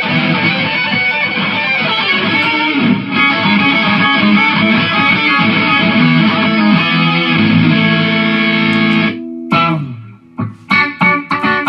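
Electric guitar played through a Mooer GE150 multi-effects processor: a continuous stretch of sustained notes that cuts off suddenly about nine seconds in. It is followed by a few short, separated stabs.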